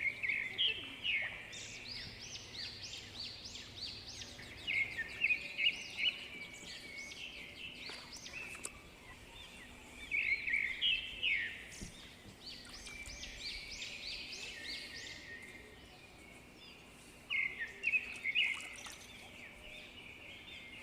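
Birds singing in short bursts of quick, high chirps that come back every few seconds.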